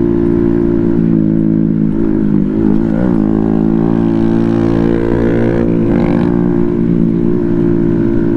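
ATV engine running at a fairly steady speed while riding on a dirt trail, with small rises and dips in pitch about three and six seconds in.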